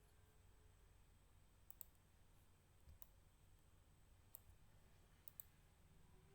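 About six faint, sharp computer mouse clicks at irregular spacing, some in quick pairs, over a low room hum.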